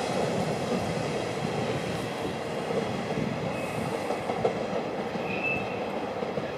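Train rolling along the tracks, a steady rumble of wheels on rail that eases off slightly, with a brief high wheel squeal near the end.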